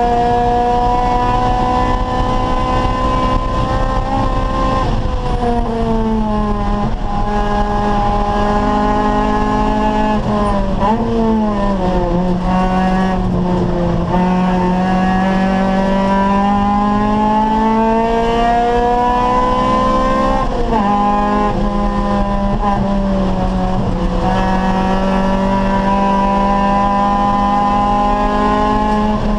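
Acura Integra Type R race car's four-cylinder VTEC engine pulling hard on track, its revs climbing steadily and dropping sharply several times as the driver shifts and brakes, with some tyre squeal.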